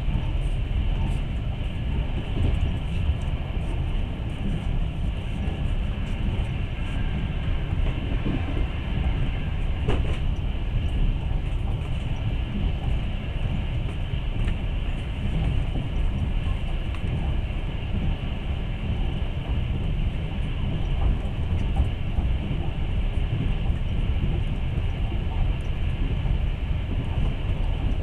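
Passenger train carriage in motion: a steady rumble of the wheels running on the rails, heard from inside the carriage.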